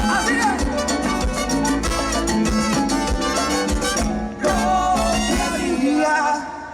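Live Latin dance band playing an instrumental passage with a steady drum beat. The band drops out briefly about four seconds in and thins out again near the end.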